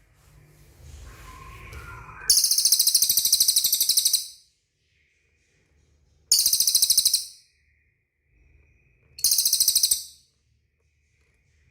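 A bird, the cililin of the title, giving three loud, rapid, buzzy trills: a long one about two seconds in lasting nearly two seconds, then two shorter ones about four and seven seconds later.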